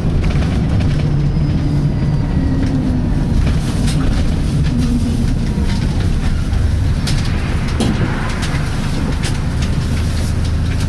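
Inside a Volvo B10BLE single-deck bus under way: its six-cylinder diesel and Voith automatic gearbox make a steady low drone, with a faint whine that sags slightly in pitch and scattered body rattles.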